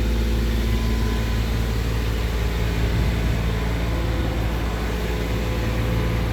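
Diesel engine idling steadily: an even low drone with a constant hum.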